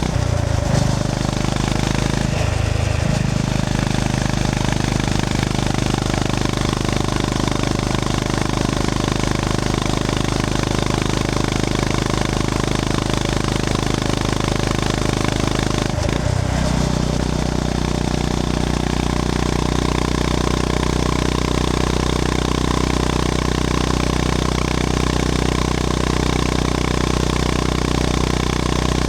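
Honda GB350S single-cylinder engine running under way on a ride, with a steady rumble. The engine note dips briefly and picks back up three times: just after the start, about two and a half seconds in, and about sixteen seconds in.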